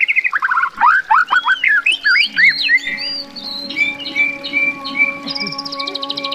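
A songbird singing. It opens with a fast trill that steps down in pitch, then gives a string of gliding whistled notes and short repeated chirps, and the same stepping-down trill returns near the end. Faint steady tones hum underneath.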